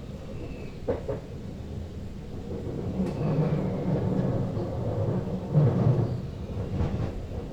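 Sprinter Lighttrain (SLT) running on the rails, heard from the driver's cab: a steady low rumble that swells through the middle, with a few sharp clicks about a second in, around three seconds, and near the end.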